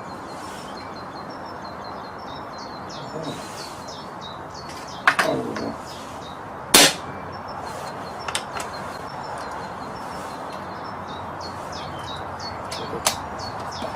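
Air rifle firing and being worked: a sharp crack with a short trailing tail about five seconds in, a louder, sharper crack a second and a half later, then a few lighter metallic clicks. The rifle is the one whose breech seal O-ring the shooter takes to have blown, letting air escape out the back. Birds chirp throughout.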